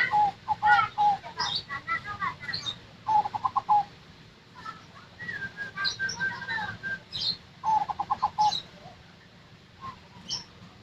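Zebra dove (perkutut) cooing: three bursts of rapid staccato notes, at the start, about three seconds in and about eight seconds in. Higher, thinner chirps sound in between.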